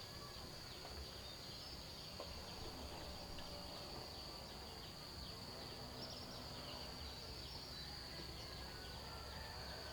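Faint, steady high-pitched drone of insects trilling, with low background noise.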